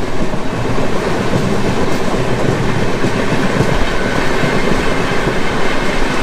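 Express passenger train running at full speed: the loud, steady rumble and clatter of the coach and its wheels on the track, with a faint ringing squeal from the rails.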